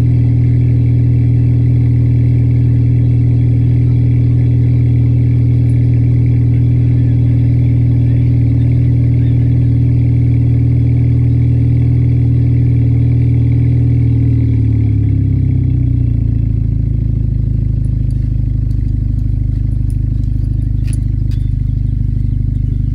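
B8 Audi A4 engine on a cold start, running at a fast, steady idle, then dropping to a lower idle about fifteen seconds in as it warms.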